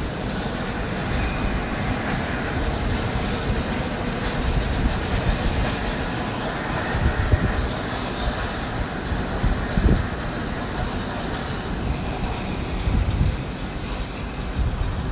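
London Underground train pulling out, its wheels rumbling over the track with a thin high wheel squeal for a couple of seconds around the middle.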